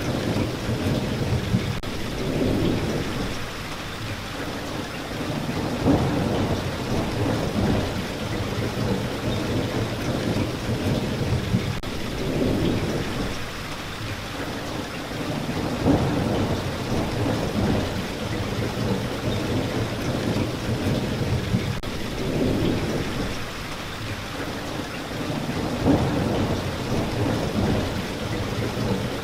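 Steady heavy rain falling, with low rolling rumbles of thunder that swell and fade several times, each about ten seconds apart.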